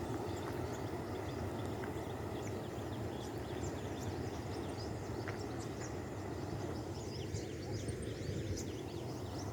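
Many small birds chirping in quick, scattered high calls over a steady low background rumble of outdoor noise.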